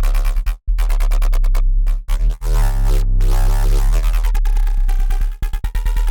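Dirty FM synth bass riff from Bitwig's Polygrid, a 140-tempo electronic bass line with a heavy sub-bass under a buzzing upper tone. It drops out briefly once, then breaks into a run of short, rapid stuttering notes about four and a half seconds in.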